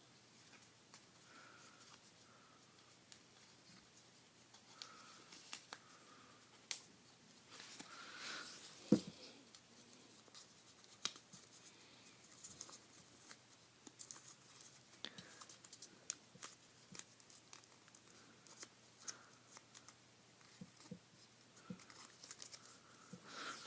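Paper being folded and creased by hand: faint rustling with scattered small clicks and taps, and one sharper tap about nine seconds in.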